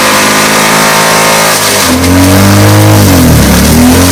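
Mitsubishi Endeavor's 3.8 L 6G75 V6 running loud at high revs in its last seconds, with no oil, no oil pan and a connecting rod broken off. Its note sags and recovers a couple of times.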